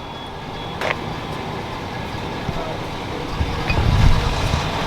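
Motor vehicle rumble with road or traffic noise, swelling louder and lower about three and a half seconds in, with a single click about a second in.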